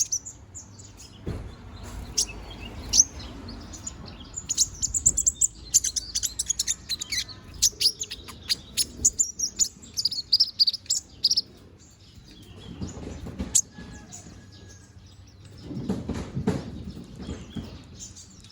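A kolibri ninja (konin) sunbird singing a rapid, high-pitched twittering song in bursts of quick chirps, busiest through the middle, while the bird is moulting. Low rumbling noise near the start and again near the end.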